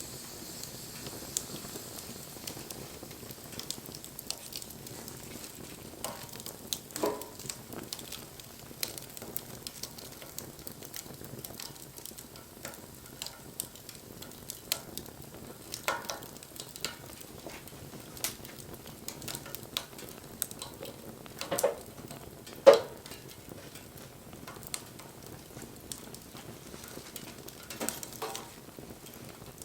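Wood campfire crackling with a steady hiss and scattered sharp pops, a few of them louder; the loudest pop comes about three quarters of the way through.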